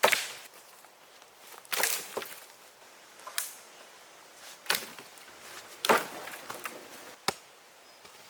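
Six sharp knocks at uneven gaps of about one to one and a half seconds, several with a brief crunching tail; the first is the loudest.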